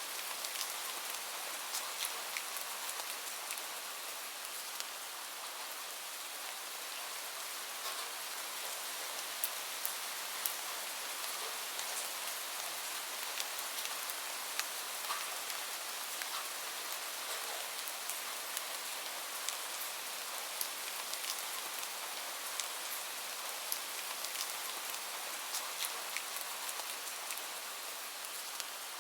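Steady rain falling, an even hiss with frequent sharp ticks of individual drops striking a surface.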